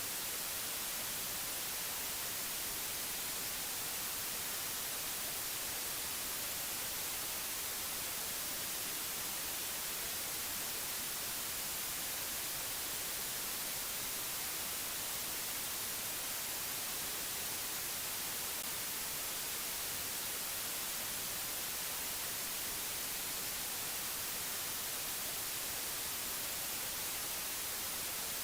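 Steady hiss of white noise, even and unchanging, strongest in the high frequencies.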